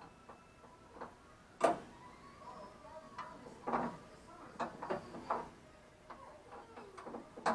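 Irregular sharp clicks and knocks, about half a dozen, from tools or metal parts being handled during car repair work.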